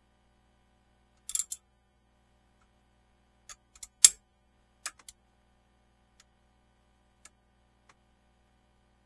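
A few short, sharp clicks and clinks of small hard objects, irregularly spaced, the loudest about four seconds in, then fainter ticks near the end.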